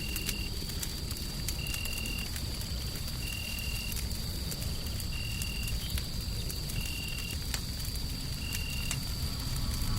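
Wood fire crackling with scattered sharp pops over a steady low rumbling white noise. A faint steady high whine runs through it, and a short high chirp repeats about every second and a half.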